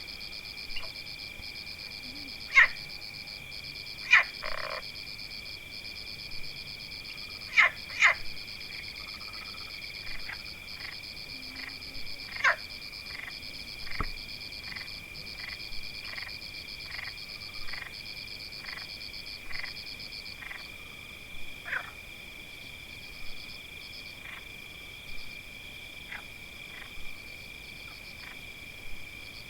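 A night chorus of frogs: short sharp calls, several loud ones in the first third, then repeating about once a second, over a steady high-pitched trilling chorus.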